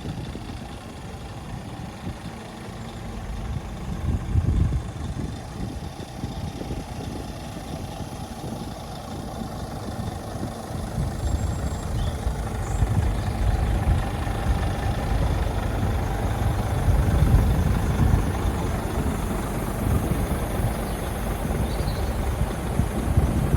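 Scania G480 truck's diesel engine running at idle, a continuous low rumble that swells and eases a little.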